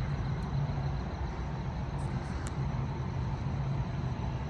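Steady low rumble of a semi-truck engine running, with a constant hiss of outdoor traffic noise around it.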